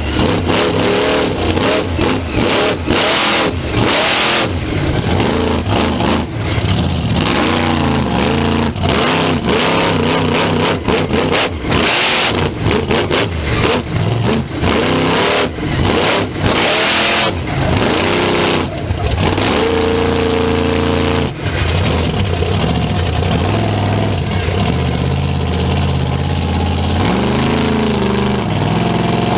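Loud vehicle engines revving hard over and over, the pitch rising and falling, with many sharp cracks through it.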